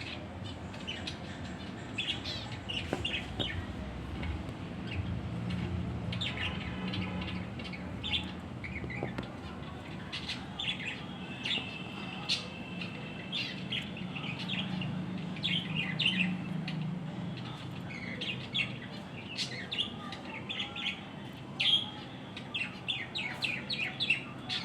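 Small birds chirping and tweeting in many short, quick calls, with a low steady hum underneath through the middle.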